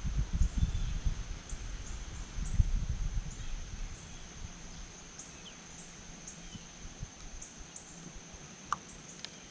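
Outdoor ambience: a steady high, thin insect drone with short repeated chirps above it. Low rumbling and knocks fill the first three or four seconds, then die away, and a couple of sharp ticks come near the end.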